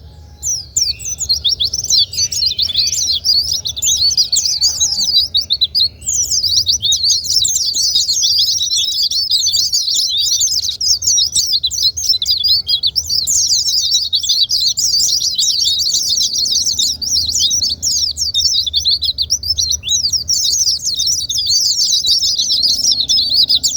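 White-eyes (pleci) singing a high, fast, unbroken twittering song, with a short pause about six seconds in.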